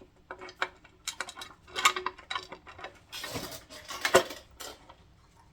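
Irregular light clinks and taps of bolts and small metal parts being handled while a timing cover is bolted onto an engine block. A short scraping rustle comes about three seconds in, and a sharper knock follows just after four seconds.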